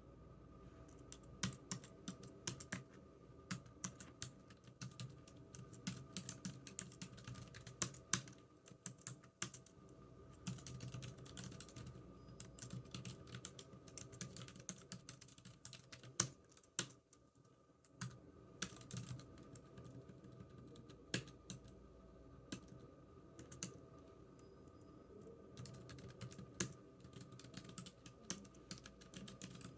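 Computer keyboard typing: a steady stream of irregular key clicks with occasional louder keystrokes, pausing briefly a little past halfway through.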